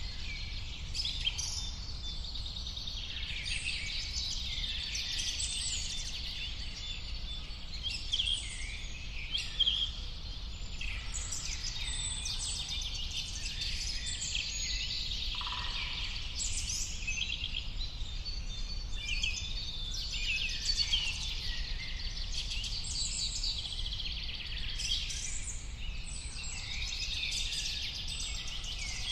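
Many birds chirping and singing at once, a dense chorus of overlapping high chirps and trills, over a low steady rumble.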